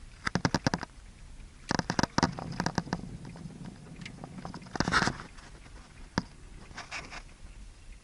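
Dry autumn leaf litter crunching and crackling in several short bursts of rapid crackles, with a single sharp snap in between.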